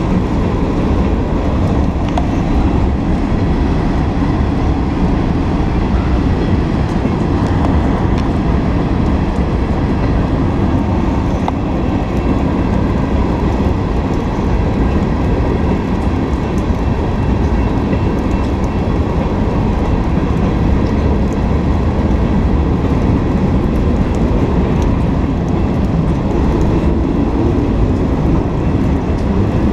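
Freight cars of a mixed freight train rolling past close by: a steady, loud rumble and clatter of steel wheels on the rails that does not let up.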